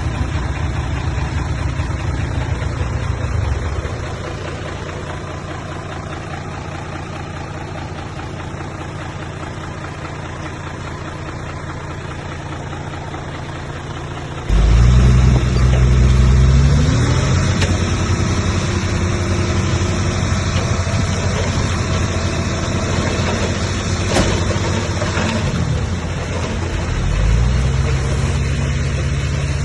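Heavy diesel earthmoving machinery engine running steadily, jumping suddenly louder about halfway through, then revving up with its pitch rising, dropping back near the end and rising again.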